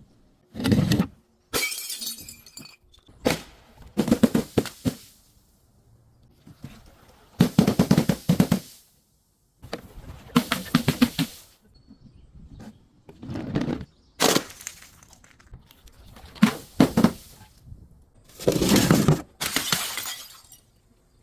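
Glass bottles being crushed and breaking, in about ten separate crunching, shattering bursts of up to a second or so each, with short pauses between them.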